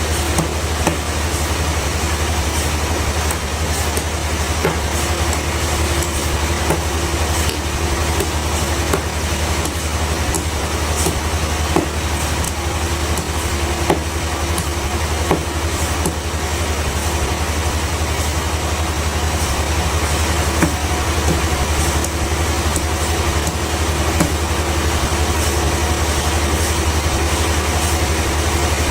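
Sawmill machinery running steadily with a strong low hum and an even mechanical noise, with a few light clicks and knocks.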